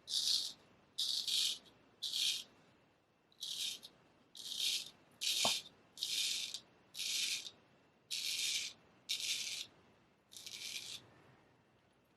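A freshly honed straight razor scraping through stubble in short shaving strokes. There are about eleven crackling strokes, each about half a second long, coming roughly once a second.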